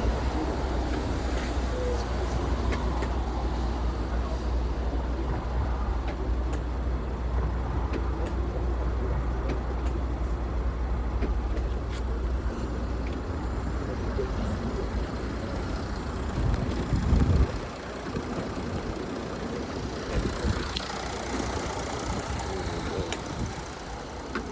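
A steady low rumble like a car engine idling, with light clicks and knocks scattered through it. Just after 17 seconds in, the rumble swells briefly, then stops.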